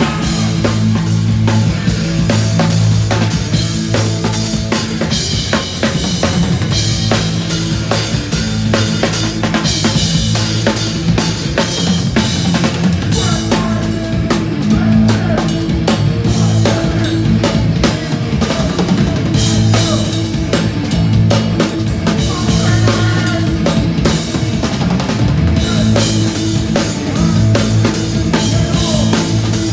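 Hardcore punk band playing a song live at full volume, the drum kit driving it with bass drum, snare and cymbals over sustained bass and guitar notes.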